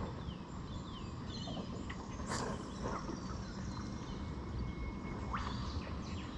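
Small birds chirping faintly in short falling calls over a steady low rumble, with one brief sharp noise partway through.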